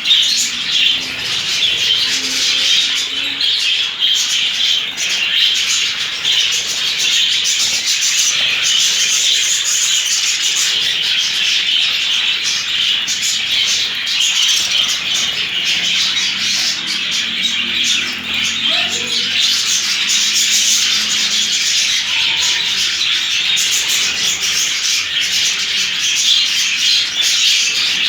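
A flock of budgerigars chattering and chirping continuously, a dense, unbroken warble of many birds at once.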